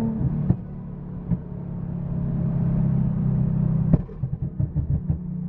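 A car engine running with a steady low drone. It swells over a couple of seconds, then drops back sharply about four seconds in with a short knock, and keeps running lower with a few soft thumps.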